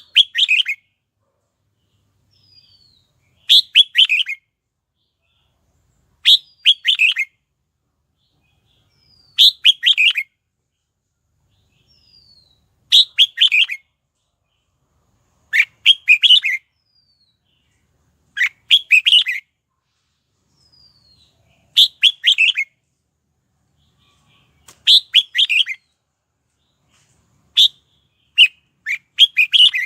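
Red-whiskered bulbul singing: a short phrase of several quick whistled notes, repeated about every three seconds, each opened by a faint thin falling note.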